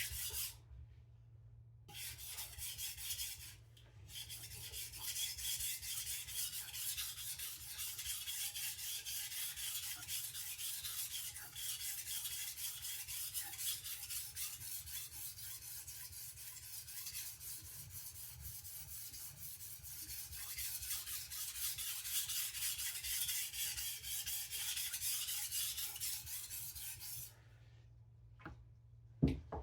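Steel chef knife blade scraped back and forth on a sharpening whetstone in a long run of quick, even strokes, working the edge to raise a burr; the strokes start after a short pause and stop near the end.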